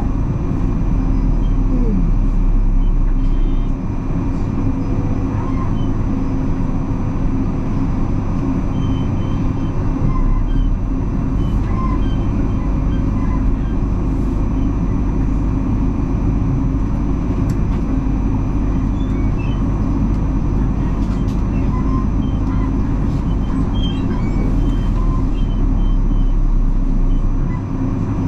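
Electric suburban train running along the line, heard from inside the carriage: a steady rumble with a few steady tones over it and faint scattered clicks, dipping briefly twice.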